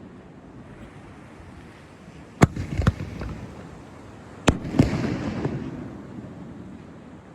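Fireworks bursting: two sharp bangs about two and a half seconds in, then another pair about two seconds later, each trailing off in a fading rumble.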